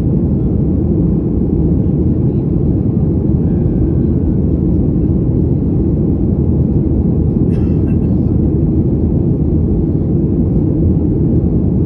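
Steady low cabin rumble of a Boeing 737's engines and airflow, heard from inside the passenger cabin, with a brief click about seven and a half seconds in.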